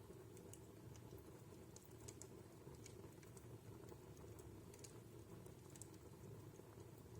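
Wood fire burning in a fireplace, crackling faintly: scattered, irregular sharp snaps and pops over a low, steady rumble of the flames.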